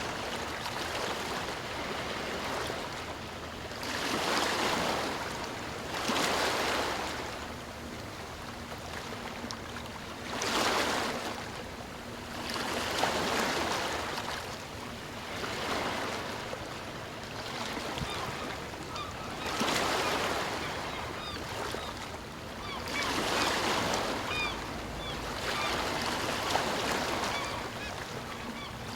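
Ocean surf: waves breaking on the shore one after another, each swelling to a rush of spray and washing back, about every two to four seconds. Faint bird calls come through in the second half.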